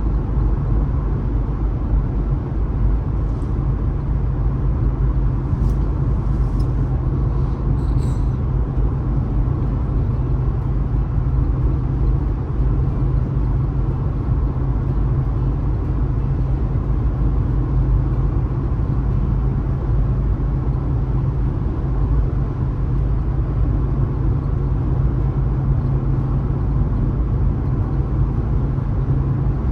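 Car driving at steady speed on a highway: a constant low rumble of engine and tyre noise, with a few faint ticks a few seconds in.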